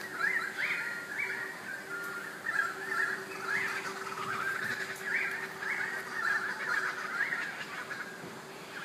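Birds calling continuously: a chorus of short, repeated, rising notes, with a faint steady hum underneath.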